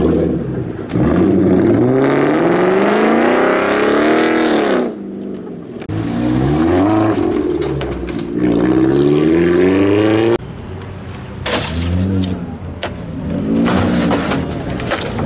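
Car engine revved hard: two long climbing pulls, each cut off abruptly at the top, then a few shorter throttle blips.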